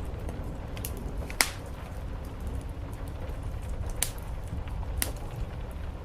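Wood fire crackling in a fireplace, with a few sharp, scattered pops, the loudest about a second and a half in. Under it runs a steady low rumble of rain on the roof.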